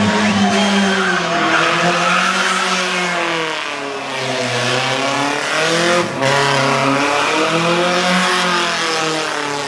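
Race car engine on a hillclimb, its revs rising and falling several times as it accelerates and lifts between bends, with a brief break in the note about six seconds in.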